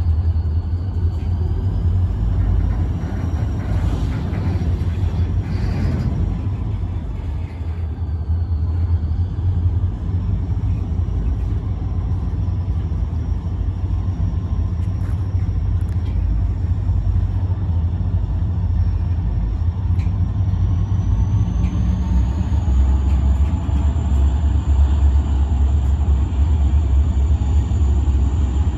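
Steady low rumble of diesel locomotives, getting a little louder in the last several seconds, with a faint thin high whine above it that climbs in pitch partway through.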